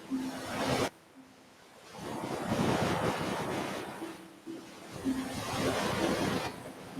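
Ocean surf: waves breaking and washing up the shore in repeated surges, each swelling and then fading over a second or two. Short, low, steady tones sound faintly among them.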